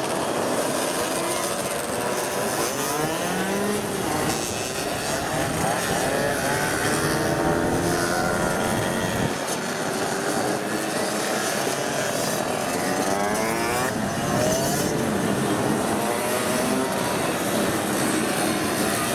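Several small 50cc moped engines passing one after another on a race track. Their overlapping engine notes keep rising and falling in pitch as the mopeds go by.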